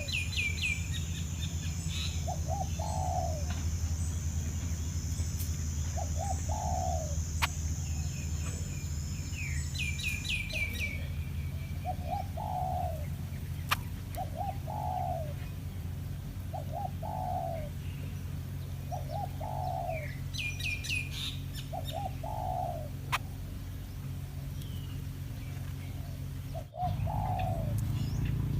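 Dove cooing: short coos repeated every second or two. Quick bursts of high, falling chirps from smaller birds come near the start, about ten seconds in and about twenty seconds in. A steady high-pitched tone runs over the first ten seconds, with a low hum beneath.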